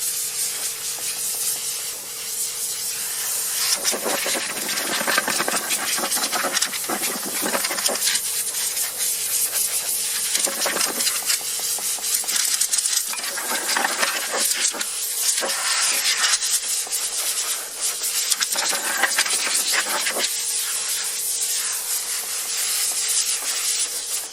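Compressed-air blow gun hissing in repeated blasts, blowing sanding dust off a whitewall tire, with a faint steady hum underneath.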